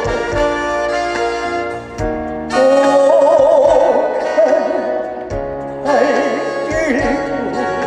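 Live trot band music: a slow ballad accompaniment with a wavering, heavily vibrato melody line carried over sustained chords and a few soft low beats.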